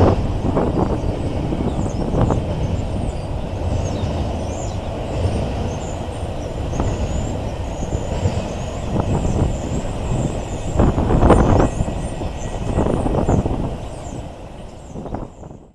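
Train rolling past: a steady low rumble of wheels on the rails with occasional sharp clanks, fading out at the very end.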